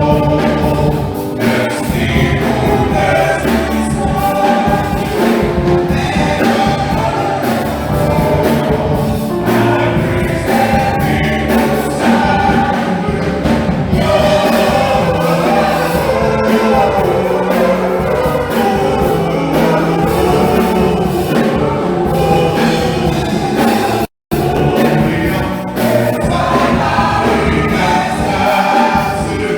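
A choir singing with instrumental accompaniment. The audio cuts out completely for a split second about three-quarters of the way through.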